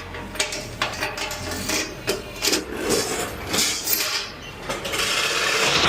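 Metal rattling and clanking as freight is unloaded: a run of sharp knocks and clicks, turning into a steady rattle for about the last second.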